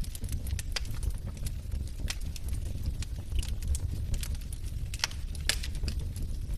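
Wood fire of burning logs crackling: irregular sharp pops and snaps over a steady low rumble, with two louder pops about five seconds in.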